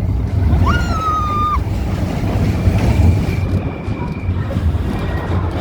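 Wind buffeting the microphone over a heavy low rumble. About a second in there is a short high-pitched sound that rises and then holds steady for about half a second.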